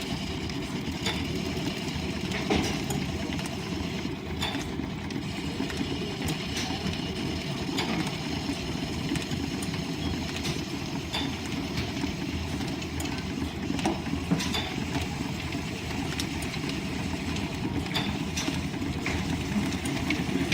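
Line-shaft-driven wood lathe and its overhead shafting running with a steady rumble, with irregular sharp clicks and knocks every second or two.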